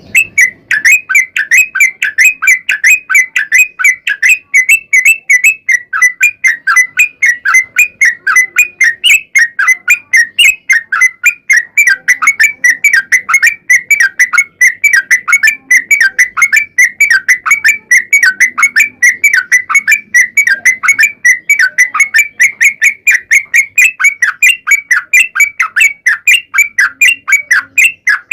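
Yellow-vented bulbul (trucuk) singing a long, unbroken run of rapid chirping notes, about four a second, without a pause.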